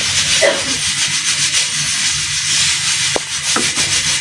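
Pressure cooker at full pressure, steam hissing steadily from its valve as the pressure escapes.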